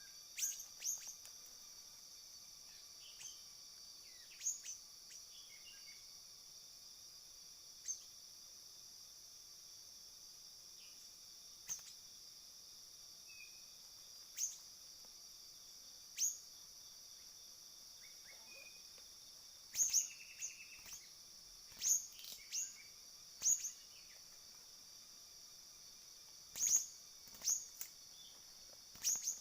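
Short, sharp, high siri-siri bird chirps, repeating every second or few and coming more often in the last third, over a steady high-pitched insect drone.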